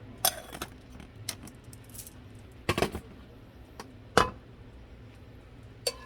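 A handful of irregular sharp clinks and knocks from small hard objects, metal or glass, being handled, a couple of them ringing briefly.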